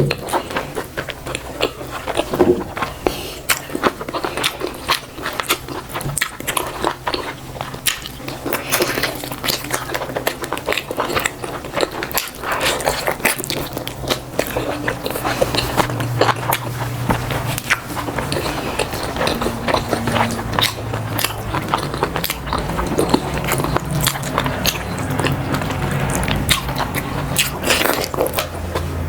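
A person eating close to the microphone: continuous chewing and biting with many small wet clicks and crackles.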